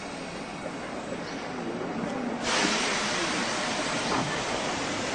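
Commuter train pulling away from the platform, a steady running noise that turns suddenly louder about halfway through as the cars pass close by.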